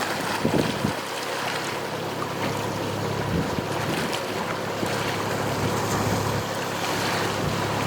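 Wind buffeting the microphone over water, with a steady low hum underneath.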